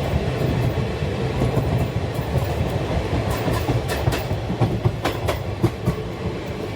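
Indian Railways train running along the track: a steady low rumble of wheels on rail, with a quick run of sharp clicks a little past halfway.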